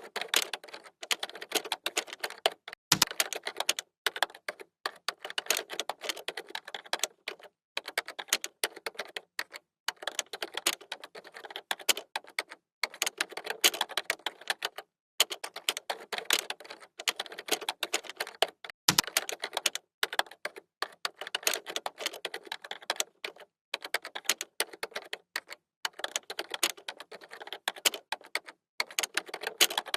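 Computer keyboard typing: rapid runs of key clicks, broken by short pauses every second or two.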